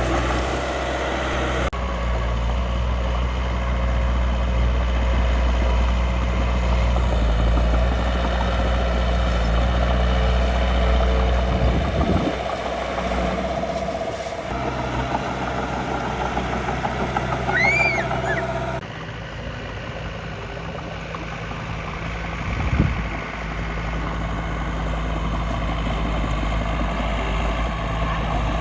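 Miniature construction machines running with a steady, truck-like diesel engine sound, broken by two abrupt changes where the video is cut. A brief louder knock comes about three quarters of the way through.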